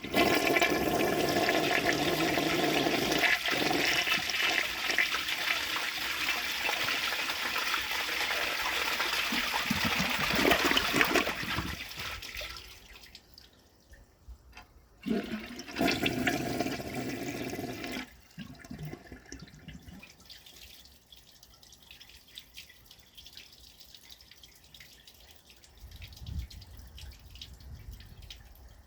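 1969 American Standard Cadet elongated toilet flushing: a sudden rush of water that runs for about twelve seconds, a second short surge a few seconds later, then quieter running water.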